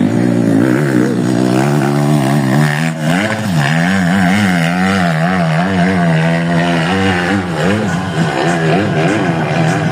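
Off-road motorcycle engine revved up and down over and over, its pitch rising and falling about once a second.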